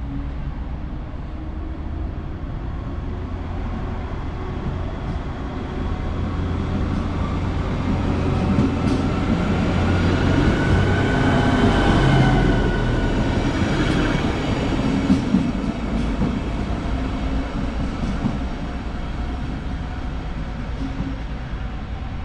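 A train passing close by: a steady rumble with a few held whining tones swells to its loudest about halfway through, then eases off. A few sharp clicks come through near the loudest part.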